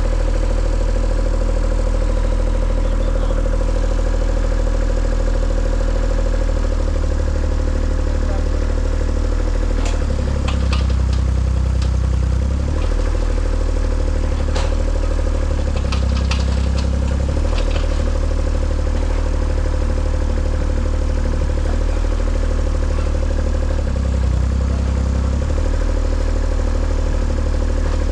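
An engine idling steadily, its low note shifting briefly a few times, with bursts of clicking and clattering about ten seconds in and again around fifteen to eighteen seconds.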